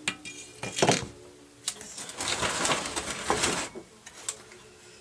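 Knocks and clatter of jukebox door parts being handled and set down, with a longer scraping rattle in the middle.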